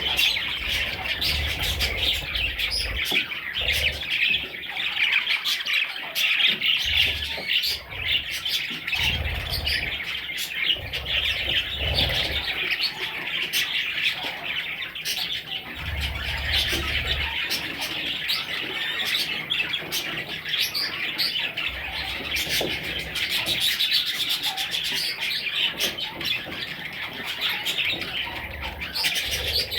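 Budgerigars chattering and chirping without a break.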